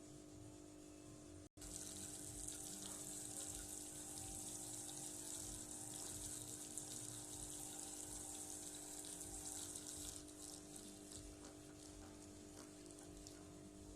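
Water running and swishing in a toy washing machine. It starts abruptly after a brief dropout about a second and a half in and eases off near ten seconds, over a steady low hum.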